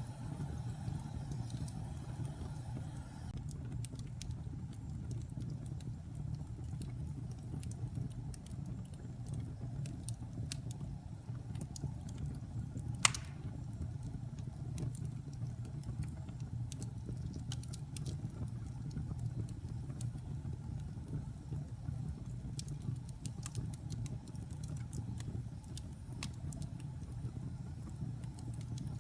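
Fire burning in a fireplace: a steady low rumble of flames with scattered crackles, and one loud pop about halfway through.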